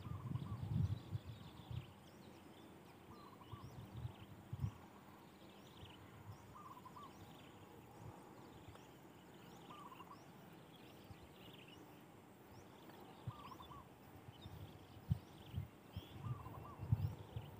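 Birds calling: a short call of a few notes repeats about every two and a half seconds, with fainter, higher chirps between. Scattered low thumps and rumbles come near the start and again toward the end.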